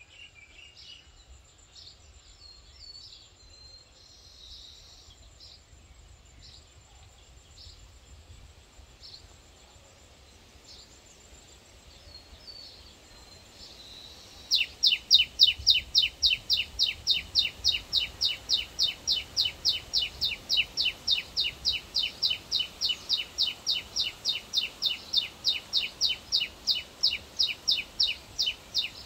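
Birds chirping faintly and sporadically. About halfway in, one bird close by starts a loud, steady series of short, high chirps, repeated evenly three or four times a second.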